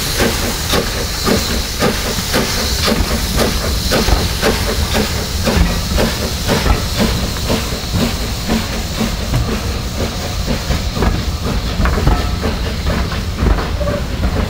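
Steam locomotive working, with hissing steam and regular exhaust beats; the hiss fades in the second half.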